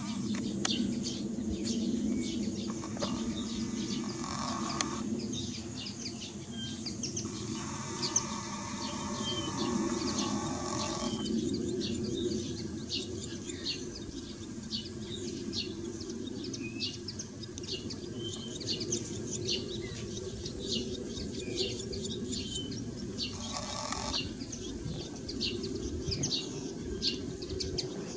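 Small birds chirping: many short, high chirps scattered throughout, over a steady low background hum.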